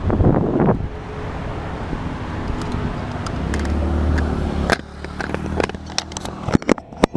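Yamaha R15's single-cylinder four-stroke engine idling through a Scorpion full-system exhaust with the dB killer removed, a steady low rumble. After about five seconds it is broken by a run of sharp, irregular clicks.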